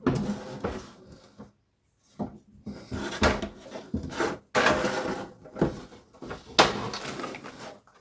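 Irregular knocks, clatter and scraping as household items are handled and washed by hand, in short bursts with brief pauses.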